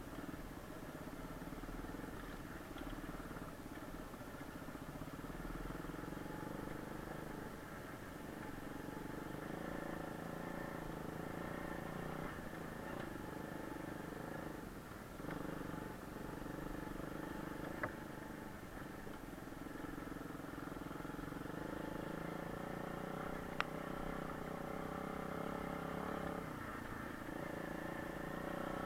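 Kayo pit bike engine running while being ridden, its pitch rising and falling with the throttle. Two brief sharp ticks come in the second half.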